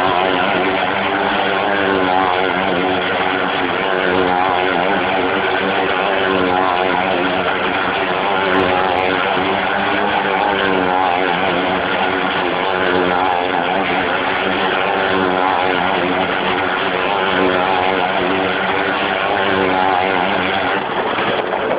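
Motorcycle engine running hard and without a break as it rides around the wall of a well-of-death pit, its pitch wavering up and down.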